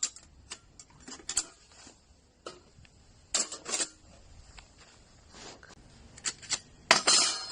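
Sheet-metal parts of a folding camping fire pit clinking and clanking as they are handled, in scattered taps with a louder metallic clank that rings briefly near the end.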